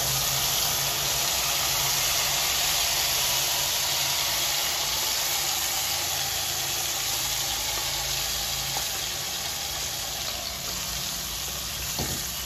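Ground masala paste frying in hot oil in a kadhai: a steady sizzling hiss that slowly fades as the paste goes in. There is one light knock near the end.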